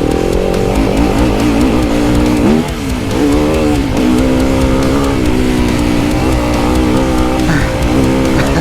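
Enduro motorcycle engine revving up and down under the throttle, mixed with background music that has electric guitar.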